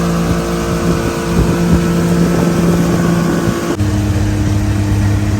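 An engine running steadily, with wind on the microphone. Nearly four seconds in it switches abruptly to a different, lower steady hum.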